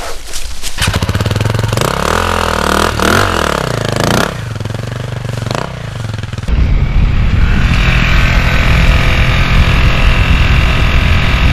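Dirt bike engine starting about a second in and revving up and down, then running louder and steadier from about halfway through.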